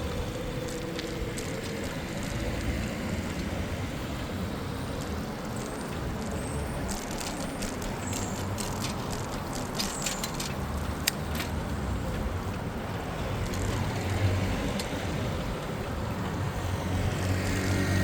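City road traffic heard from a moving bicycle, a steady mix of vehicle noise. About halfway through comes a run of light clicks, one sharper than the rest, and the traffic grows louder near the end.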